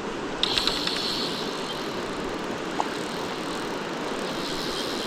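Steady rush of a flowing river, with a short run of clicks about half a second in.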